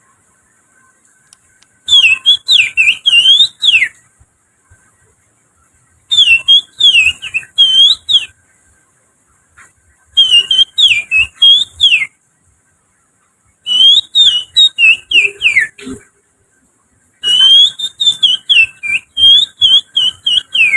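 Finger whistling imitating the lively song of an oriental magpie-robin (kacer), used as a lure to get birds singing: five phrases of quick, rising and falling whistled notes, each about two seconds long, with pauses of about two seconds between them.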